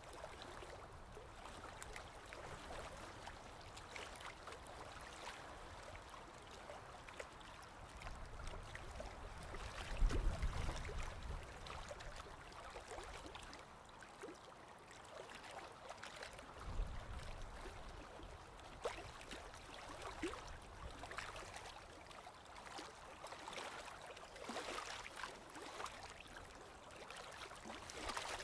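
Sea water lapping and gurgling with small crackling splashes, with a louder low surge of a wave about ten seconds in and another around seventeen seconds.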